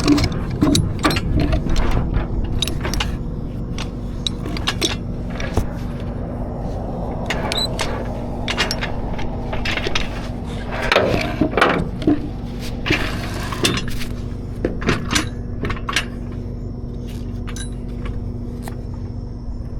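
Irregular metal clinks, clanks and knocks of towing gear and a wheel dolly being handled, over a steady low engine hum.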